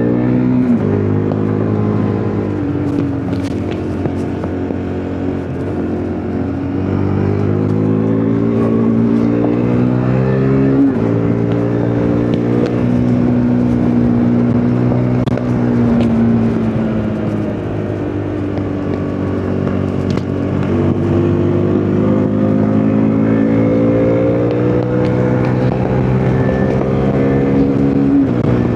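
KTM RC 390's single-cylinder four-stroke engine under way, rpm climbing slowly through each gear and dropping sharply at three upshifts: about a second in, about eleven seconds in and near the end.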